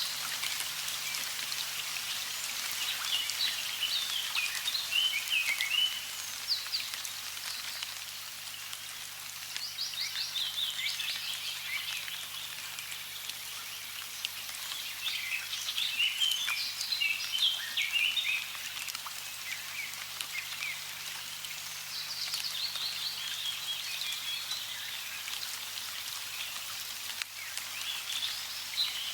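Running water with a steady splashing hiss, and songbirds singing in bright chirping phrases of a few seconds that come back about every six seconds.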